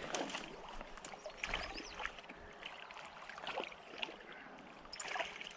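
Creek water running faintly, with scattered small splashes and clicks, likely from a trout being played on a line.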